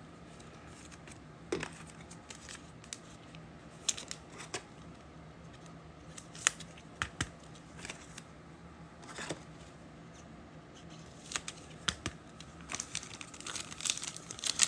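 Trading-card packs and cards being handled: scattered faint clicks and crinkles of foil wrappers and card stock, spread over the whole stretch.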